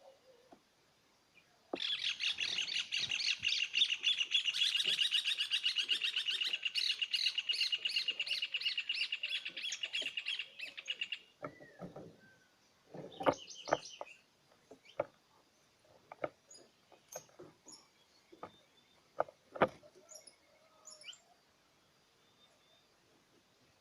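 A small songbird singing one long, fast song of rapidly repeated notes for about nine seconds. Afterwards come scattered short chirps and a few sharp clicks.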